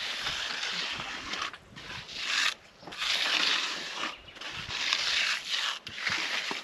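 Repeated rough scraping strokes, about five of them, each lasting around a second with short pauses between.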